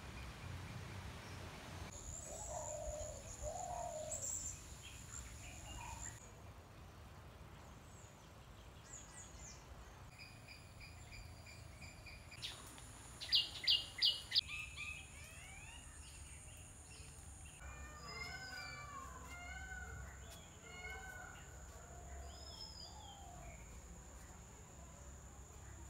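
Several wild birds chirping and calling, with a run of four loud, sharp calls about halfway through. A thin, steady high tone runs under the calls in the second half.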